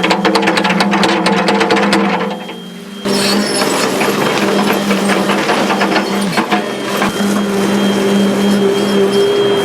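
A construction machine's engine runs with a steady low hum and a fast mechanical clatter. The sound drops away briefly a little after two seconds, then resumes steadily.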